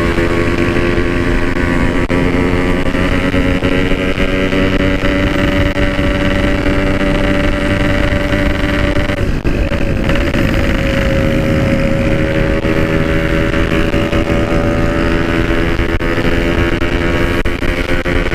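Yamaha RX-King two-stroke single idling steadily through a stock-style exhaust, with a short wobble in pitch about halfway through.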